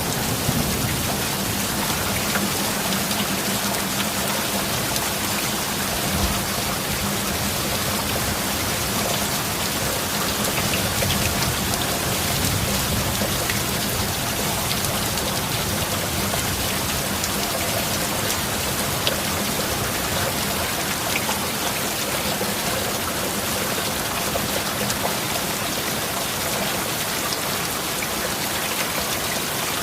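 Steady heavy rain falling in a dense, even patter, with the last of a low thunder rumble fading out at the very start.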